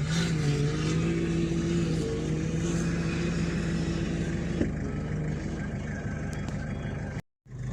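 An engine running at a fairly steady pitch, stepping up slightly at the start and holding level, with a brief cut to silence near the end.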